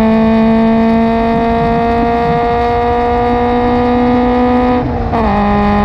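Subaru BRZ's FA20 flat-four with a Ptuning header and Invidia N1 single catback exhaust, accelerating under throttle in 4th gear with its pitch slowly rising. About five seconds in comes a quick upshift to 5th: the sound dips for a moment, then the engine note carries on at a lower pitch. Heard from inside the cabin.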